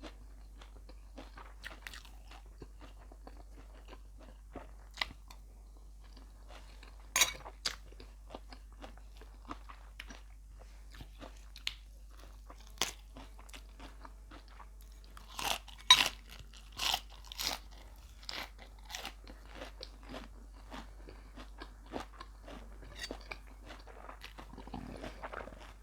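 Close-miked chewing and crunching of a mouthful of beef larb with crisp raw vegetables, with sharp crunches scattered throughout and a louder run of crunches about fifteen to eighteen seconds in.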